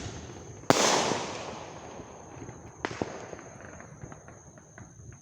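Fireworks going off: one loud bang just under a second in that fades away over about a second, then two sharper pops around the middle, with scattered small crackles between.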